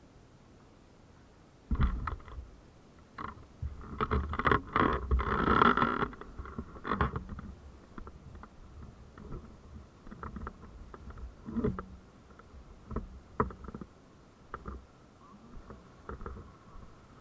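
Irregular knocks and scraping sounds starting about two seconds in, thickest and loudest from about four to six seconds in, then thinning to scattered single knocks over a faint steady tone.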